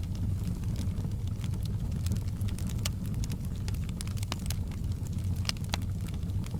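Crackling wood fire in a hearth: scattered sharp pops and snaps over a steady low rumble.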